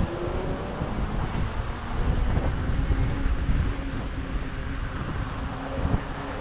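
Wind buffeting the microphone of a body-mounted action camera while riding, over a low, steady rumble of road and passing traffic.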